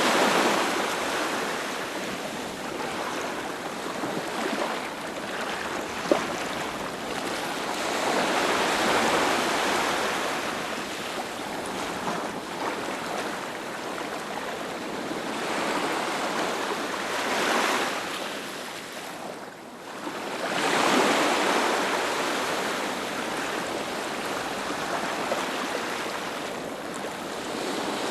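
Ocean waves breaking on a beach, the surf swelling and washing back every several seconds, with a brief click about six seconds in.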